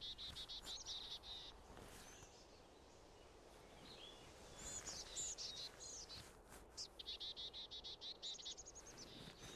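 Small birds singing fast, high trills in three spells, faint over a low background hiss.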